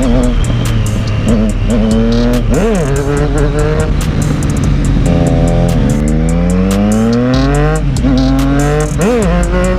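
Triumph Street Triple's three-cylinder engine revving hard while being ridden. The pitch climbs in one long pull through the middle and drops sharply at a gear change. Quick throttle blips rise and fall about a quarter of the way in and again near the end.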